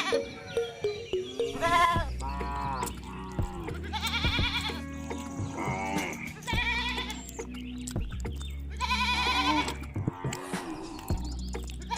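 Bleating animal calls, each one wavering and lasting about a second, repeated roughly every two to three seconds over background music with steady low notes.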